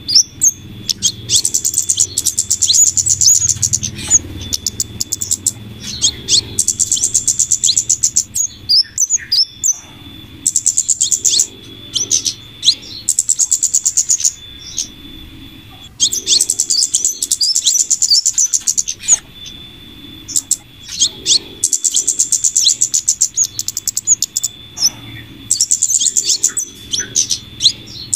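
Bird-lure recording of flowerpecker (kemade / cabe-cabean) calls mixed with female sepah raja calls. It plays as bouts of rapid, high-pitched chattering about two seconds long, broken by short gaps and scattered single high notes.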